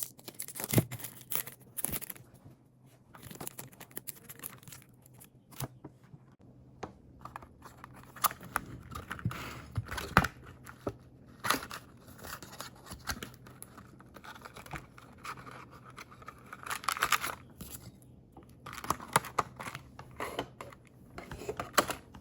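Hands packing a parcel: irregular rustling, tearing and snipping of paper, plastic and tape, with scattered taps and clicks.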